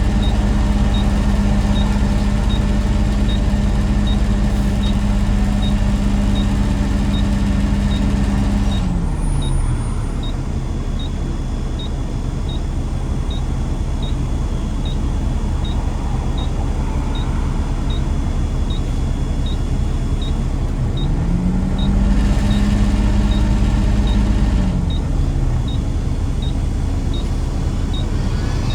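Road vehicle driving, its engine note dropping away about nine seconds in and rising again around twenty-one seconds, with a faint regular tick about once a second.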